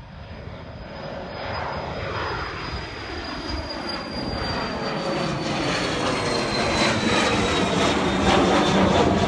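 Jet airplane's engines at takeoff power, growing steadily louder as it comes nearer, with a high whine that slowly falls in pitch.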